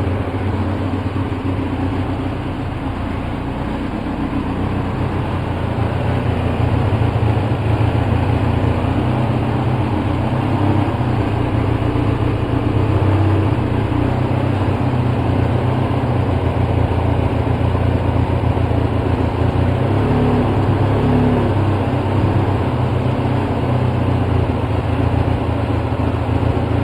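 2004 Polaris Sportsman 700 twin-cylinder engine idling roughly while held running on choke, with Seafoam added to the fuel.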